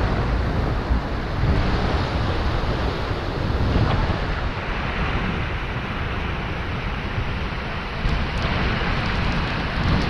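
Steady rushing of the Seljalandsfoss waterfall, with wind buffeting the microphone in uneven low rumbles.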